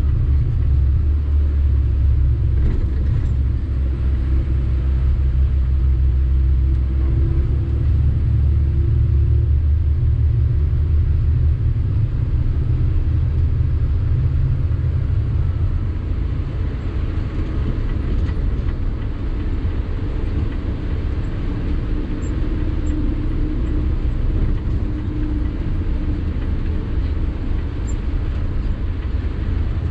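Sany 6x4 dump truck's diesel engine and road noise while driving: a steady low rumble that eases slightly about halfway through.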